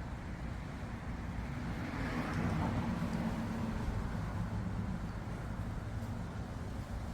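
A car passing on a road, swelling to its loudest about two or three seconds in and then fading, over a steady low rumble of traffic.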